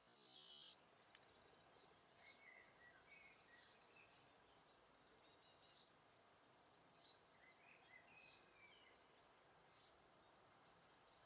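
Small garden birds chirping faintly in short, scattered notes over a steady outdoor hiss.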